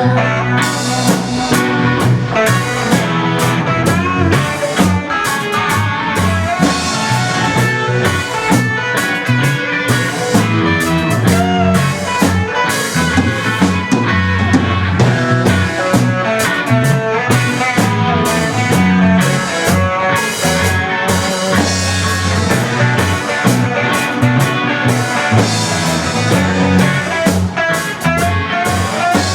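Full-band rock instrumental with electric guitar playing busy lead lines over drum kit and bass, in a blues-tinged psychedelic rock style.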